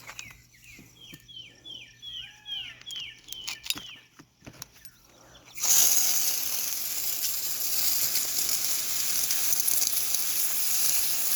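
A garden hose with a shower nozzle is turned on about halfway through and sprays in a steady hiss onto a bed of soil and turnip greens that the gardener says is almost dry. Before that, a bird calls a quick run of short down-slurred notes, with a few clicks.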